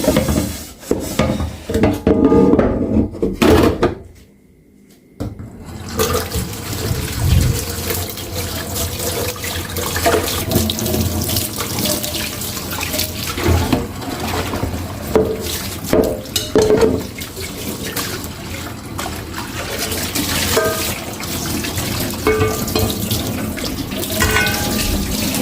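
A kitchen tap runs into a sink while dishes are washed by hand, with clinks and knocks of the dishes. It opens with a few seconds of clattering, drops to a short lull about four seconds in, and then the water runs steadily under scattered knocks.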